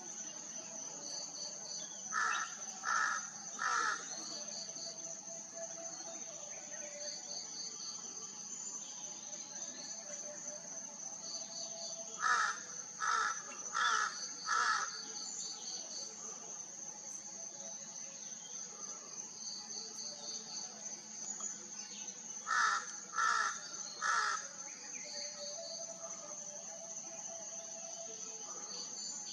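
A bird calling in three bouts of loud, evenly spaced notes, three, then four, then three, about half a second apart, over a steady high insect drone, with short trains of rapid high chirps from a smaller bird repeating every few seconds.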